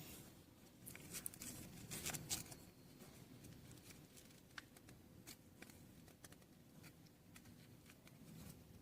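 Near silence with faint clicks and rustling; a cluster of sharper clicks comes about one to two and a half seconds in.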